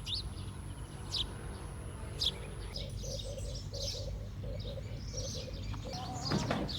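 Outdoor ambience of birds chirping, with short high chirps in the first few seconds and a lower call repeating about three times a second in the middle, over a steady low background hum.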